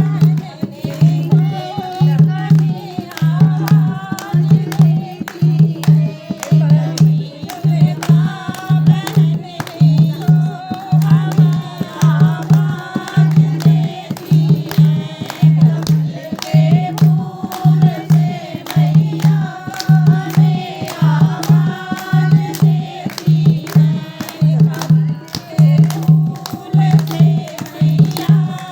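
Hindi devotional song (a bhajan to the Mother goddess): a sung melody over a steady low drum beat, a little under two beats a second, with light percussion on top.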